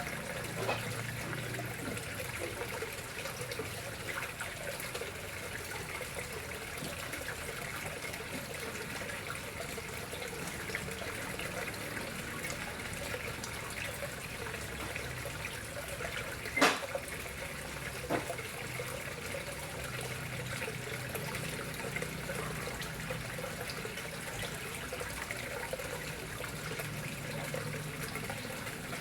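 Water flowing steadily into a koi pond, an even running-water sound. A sharp click about halfway through, with a fainter one near the start and another shortly after the loud one.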